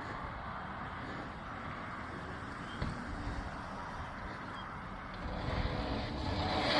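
A vehicle on the move: steady road and wind noise, with a light knock about three seconds in, growing louder over the last two seconds.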